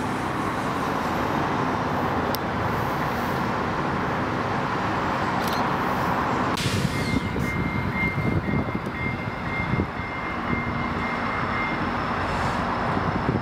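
Commuter train of bilevel passenger coaches rolling past: a continuous rumble of steel wheels on rail, with irregular low clacks in the second half and a faint thin whine above it.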